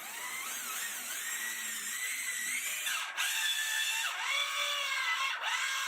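Electric drill running with a high motor whine whose pitch dips and recovers, as under changing load. It stops briefly about three seconds in, then runs again and cuts off near the end.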